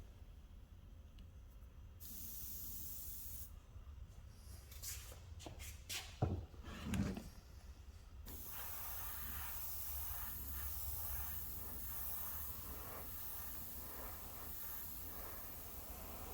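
Paint spray gun hissing as it sprays: a short burst about two seconds in, a few knocks and two dull thumps while it is off, then steady spraying for the second half.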